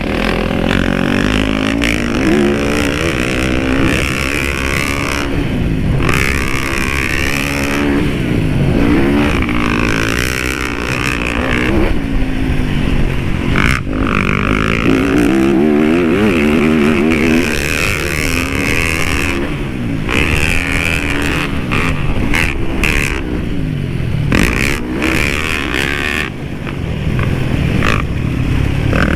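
Dirt bike engine being ridden hard, its pitch rising and falling again and again as the rider revs and shifts around a motocross track.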